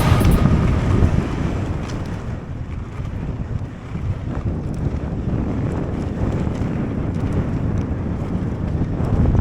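Wind buffeting the microphone in a low rumble, with faint scattered clicks and rattles, typical of a camera on a moving mountain bike. It eases a little around the middle and builds again near the end.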